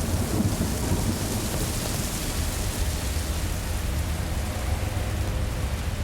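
Thunderstorm: steady rain hiss over a low rumble of thunder, the rumble heaviest in the first second or so.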